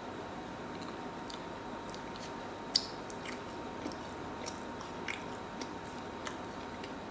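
A person chewing and biting food, with small scattered mouth clicks and one sharp, louder click a little under three seconds in, over a steady faint hiss from the camera's built-in microphone.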